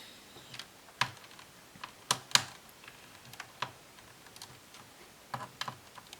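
Irregular sharp clicks and taps, a few seconds apart, from a screwdriver and small screws worked out of the back of a laptop's plastic case.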